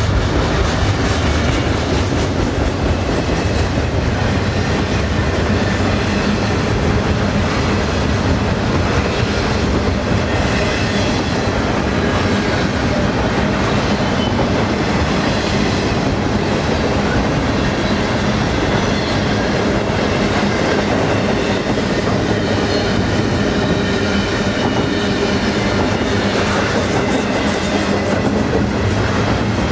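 Double-stack intermodal container cars rolling past at speed: a steady rolling noise of steel wheels on rail, with the clickety-clack of wheels passing over rail joints and faint high tones above it.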